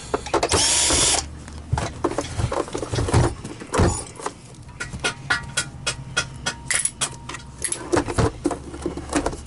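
A power screwdriver whirs briefly, backing out a T10 screw from the plastic housing of a vacuum power head. After about a second it stops, and a long run of small clicks and rattles follows as screws and plastic parts are handled.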